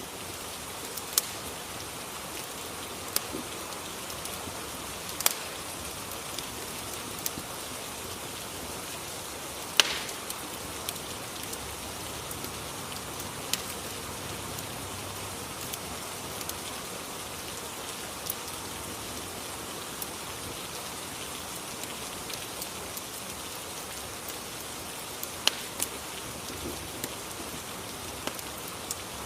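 Steady rain ambience with an open fire crackling, giving sharp, isolated pops every few seconds.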